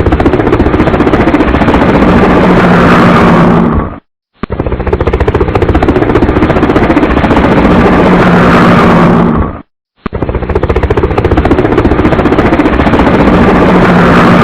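Helicopter running close by: a loud, rapid chopping clatter. It cuts off abruptly twice and restarts the same way each time.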